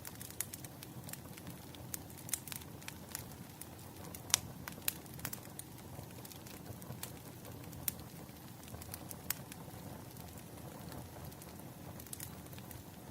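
Wood fire crackling: irregular sharp pops and snaps over a low steady hiss, the loudest pop about four seconds in.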